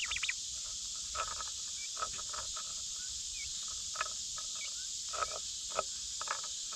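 Steady high-pitched drone of insects, with short sharp sounds scattered every second or so over it.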